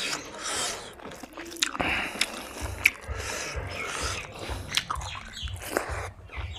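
Close-miked chewing of fried pork and rice eaten by hand, with sharp mouth clicks and smacks. From about two and a half seconds in, a low dull thudding runs underneath the chewing.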